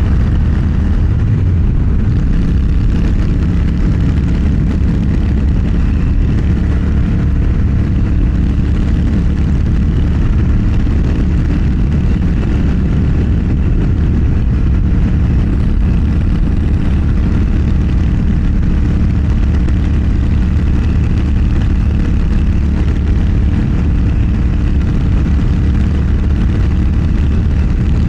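Motorcycle engine running at a steady cruise with loud wind rush, its drone holding an even pitch throughout.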